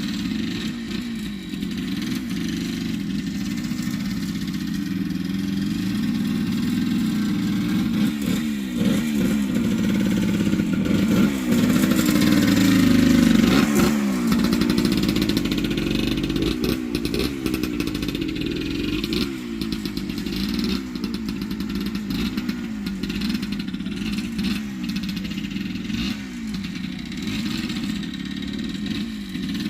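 1978 Yamaha DT100's two-stroke single-cylinder engine revving up and falling back again and again as the dirt bike is ridden, loudest about halfway through.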